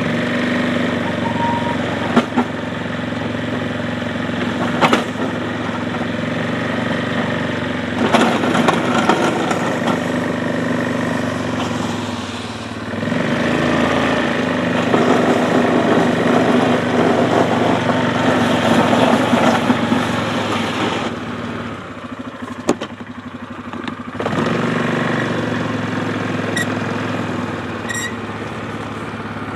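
ATV engine running under varying throttle while pushing a plow through slush, its pitch and level rising and falling, dropping back toward idle for a couple of seconds about two-thirds through. A few sharp knocks sound over it.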